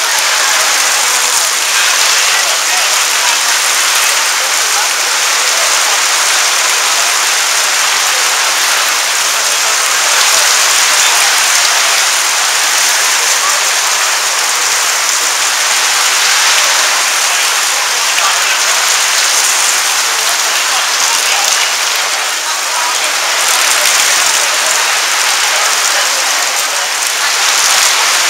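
Heavy thunderstorm downpour: a loud, steady hiss of rain, heard from under a gazebo canopy.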